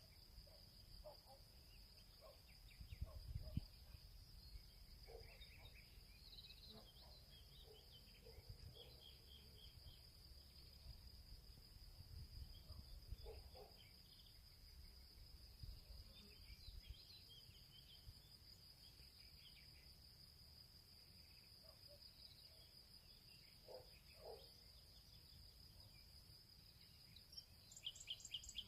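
Faint field ambience: a steady high insect trill, like crickets, with scattered short bird chirps and calls, over a low rumble that swells briefly about three seconds in.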